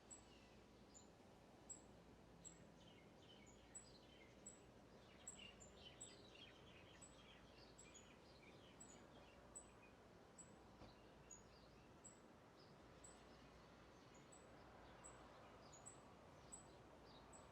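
Near silence with faint bird chirps and a faint, very high-pitched chirp repeating about every three-quarters of a second.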